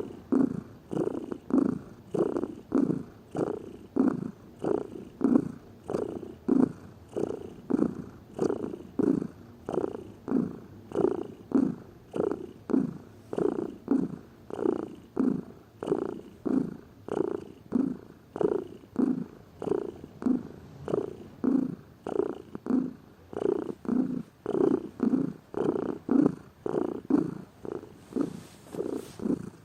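Domestic cat purring close up: a steady, even rhythm of pulses that swell and fade about one and a half times a second as the cat breathes in and out.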